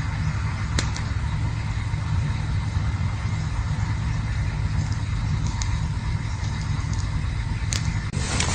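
Campfire burning: a steady low rumble with a few sharp crackles and pops. A louder rushing flare-up comes near the end.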